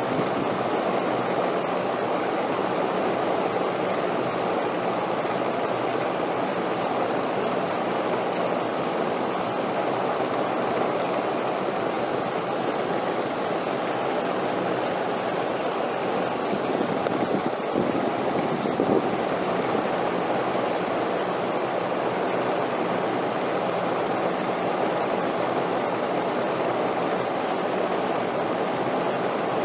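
Steady wind noise, with a couple of slight gusts about two-thirds of the way through.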